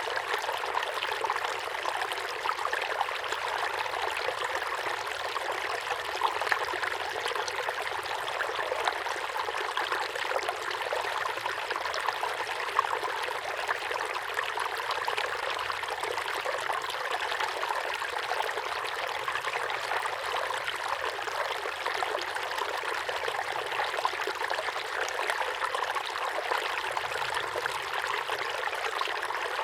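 Small waterfall pouring steadily into a pond: a constant splashing rush of falling water.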